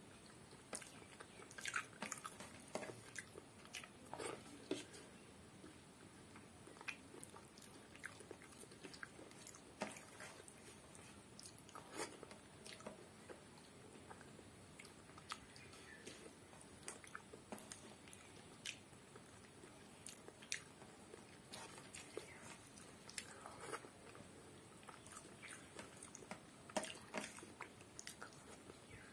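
Close-up eating sounds: chewing and mouth smacks as rice and curry are eaten by hand, with fingers mixing the food on a paper plate. They come as a string of short, irregular clicks and wet smacks.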